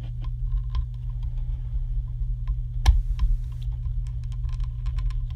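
Small model-airliner parts clicking and tapping as they are pressed into place by hand: irregular light clicks, with one sharper click about three seconds in, over a steady low hum.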